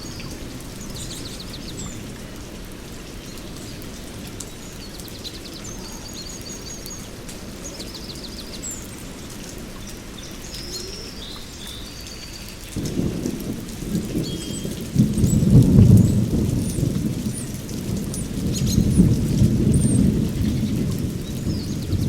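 Rainstorm with birds chirping now and then. About thirteen seconds in, a roll of thunder sets in, a deep rumble that peaks a couple of seconds later and swells again near the end.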